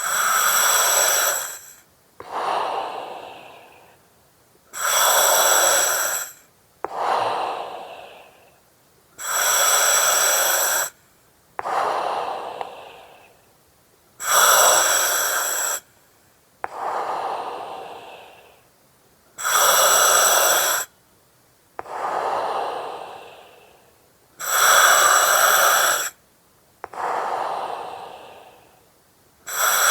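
Slow, regular breathing through an oxygen mask, about six breaths: each one a sudden loud hiss from the mask's regulator, carrying a faint whistling tone, then a softer breath that trails off, repeating about every five seconds.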